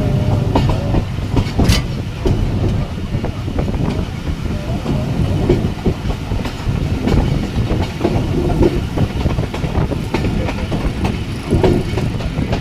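Jaffar Express passenger train running along the track, with a steady low rumble and the irregular clickety-clack of wheels over rail joints, plus one sharper clack a little under two seconds in.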